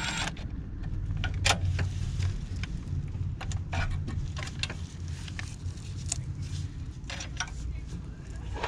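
Scattered sharp metallic clicks and clinks of tools and parts being handled, over a steady low hum. A dense, noisy sound cuts off just after the start.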